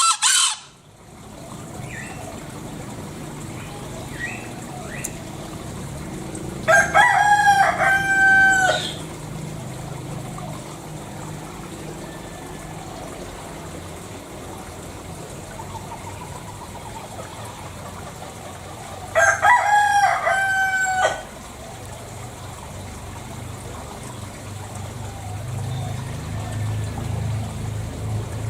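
Green junglefowl (Gallus varius) cock crowing twice, about seven and nineteen seconds in, each a short two-part call of about two seconds, over a low steady background noise.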